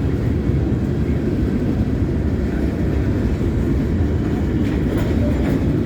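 Florida East Coast freight train rolling past at close range: a steady low rumble of steel wheels on the rails as the last cars go by.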